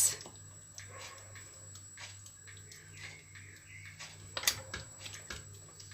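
Bolognese ragù simmering in a pot: faint scattered pops and clicks of bubbles, with a sharper click about four and a half seconds in.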